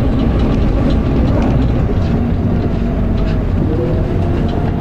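Dennis Arrow double-decker bus running under way, heard on board: loud, steady engine and drivetrain noise. Near the end a whining note rises in pitch. The bus has a ZF automatic gearbox that slips.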